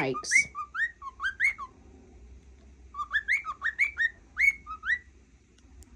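Cockatiel whistling: two runs of short, quickly rising whistled notes with a pause of about a second between them.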